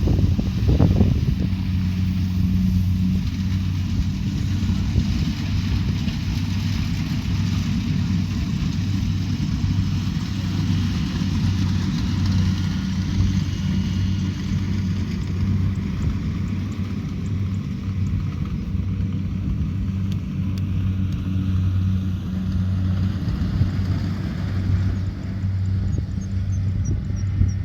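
Kubota DC70 Pro combine harvester running steadily: a constant diesel engine hum under a broad mechanical rush from the working machine. A faint run of high ticks comes in near the end.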